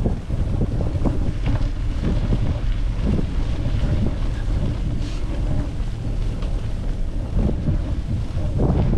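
Wind buffeting the microphone: a heavy low rumble that rises and falls in gusts.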